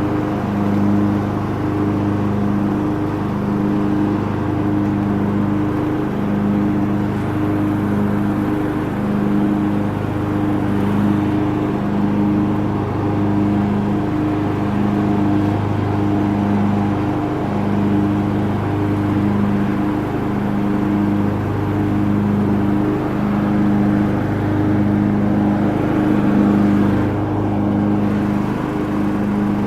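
Lawn tractor engine running steadily, its hum swelling and fading in a regular pulse about once a second.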